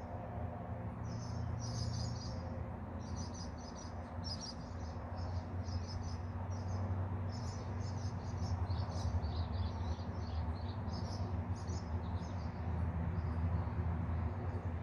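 Birds chirping in short repeated bursts of high notes, over a steady low rumble.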